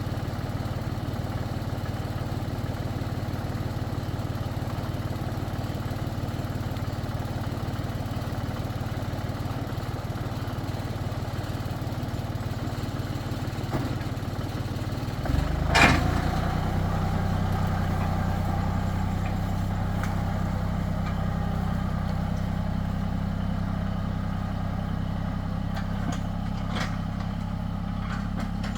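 Tractor engine running steadily. About halfway through there is a loud clunk, after which the engine note changes and runs a little louder, with a few light clicks near the end.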